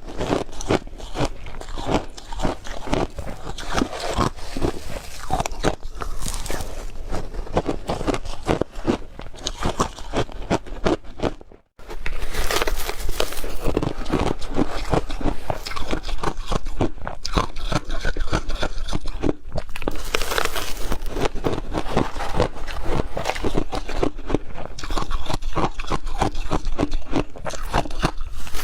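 Close-miked crunching and chewing of hard crushed ice: dense, rapid, crackly crunches of ice being bitten and ground between the teeth, with one brief break of silence a little under halfway through.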